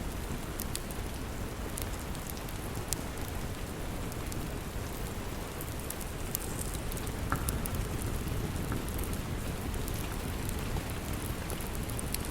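Steady rain with scattered short crackles and pops from a wood fire.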